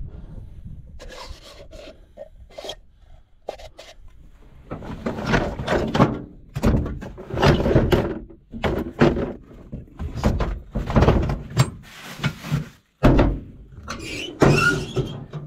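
Plastic and rubber drainage pipe fittings being handled and worked together by hand: irregular squeaks, scrapes and knocks.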